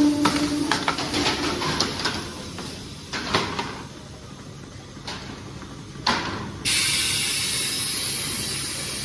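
Quick clanks and rattles, then a quiet spell and one more knock; near the end a steady hiss starts suddenly and keeps going.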